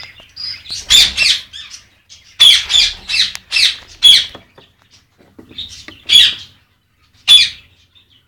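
Eclectus parrots squawking: loud, harsh calls in short clusters with pauses between, the busiest run coming a couple of seconds in.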